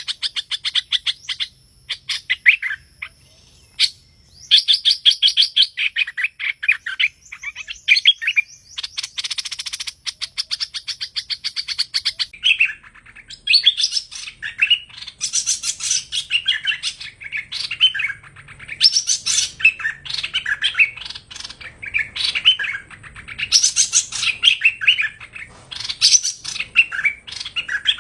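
Recorded song of the hoành hoạch thơm bird. It opens with fast trilled runs of repeated notes, then changes about twelve seconds in to a stream of varied, quick chirping phrases.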